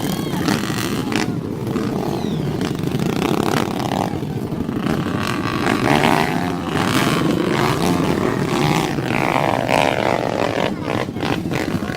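Dirt bike engines running and revving over rough ground, with a few knocks near the end.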